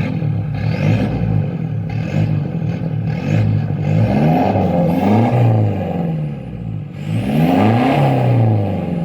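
Toyota Hilux turbo diesel engine with its muffler deleted, blipped up from idle and back down twice, the exhaust note rising and falling each time.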